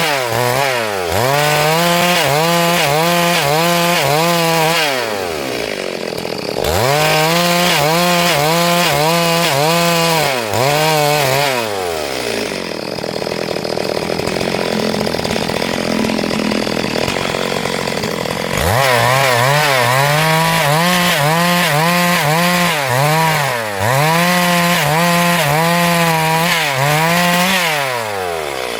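Two-stroke chainsaw at high revs ripping lengthwise through a log. The engine note drops away and returns several times, and around the middle it gives way for several seconds to a noisier sound without the steady pitch before the full revs come back.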